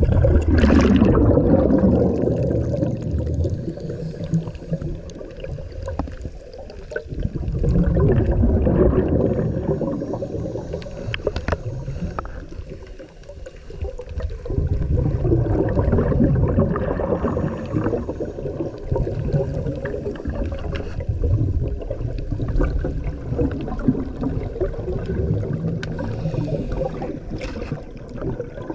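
Water sloshing and gurgling close to the microphone, muffled, swelling and fading in waves every few seconds.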